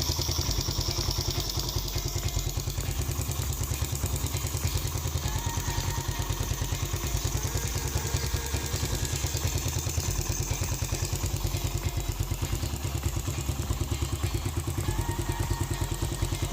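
Suzuki Raider 150 motorcycle's single-cylinder four-stroke engine idling steadily, with an even, quick run of exhaust pulses.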